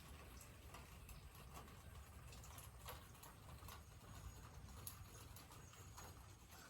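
Near silence, with faint irregular ticks scattered throughout.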